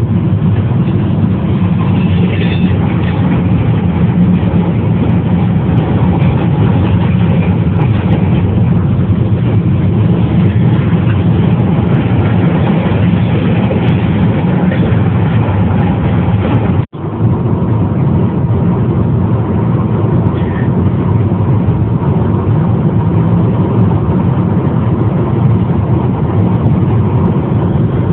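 Steady, loud low vehicle rumble that holds unchanged throughout, broken once by a momentary dropout about seventeen seconds in.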